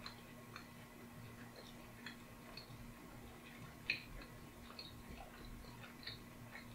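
Faint mouth sounds of a man chewing a mouthful of steak and ale pie with pastry: soft irregular clicks and smacks, one louder about four seconds in.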